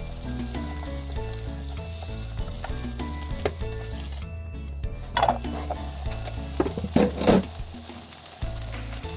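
Cucumber and egg sizzling as they are stir-fried in a frying pan, with stirring, and a few louder scrapes about halfway through and again around 7 seconds in.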